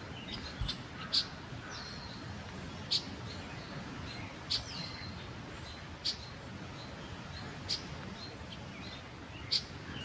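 Songbird giving short, sharp call notes about every one and a half seconds, six in all. A few thin whistled notes fall in between, over a steady background hiss.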